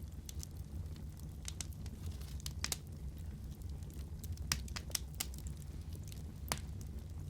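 Wood fire crackling over a steady low rumble of the flames, with irregular sharp pops and snaps, the loudest about two and a half, four and a half and six and a half seconds in.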